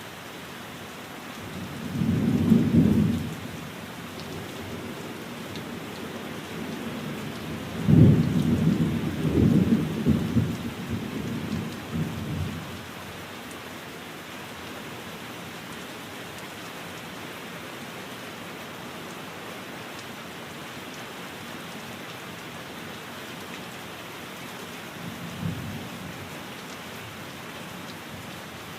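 Steady rain with rumbles of thunder: a short roll about two seconds in, a louder one that breaks sharply about eight seconds in and rolls on for some four seconds, and a faint one near the end.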